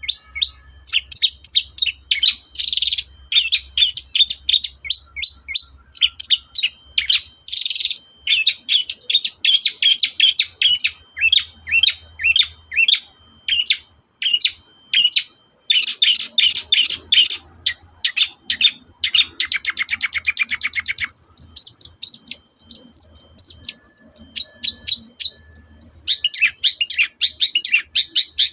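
Long-tailed shrike (cendet) singing a loud, fast chattering song of rapid, varied short notes, with a quick even trill about two-thirds of the way through.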